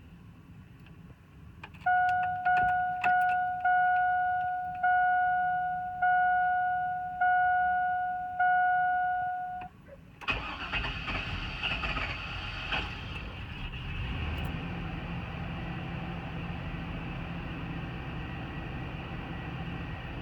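Dashboard warning chime dinging about eight times, spacing out as it goes, then the 5.3L Vortec V8 of a 2000 GMC Yukon cranks and starts about halfway through and settles into a steady idle. This is a cold start of an engine with a known hard-starting problem.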